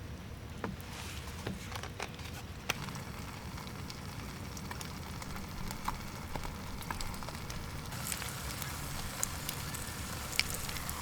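Wood fire crackling, with irregular sharp pops over a steady low rumble and a hiss that grows brighter near the end.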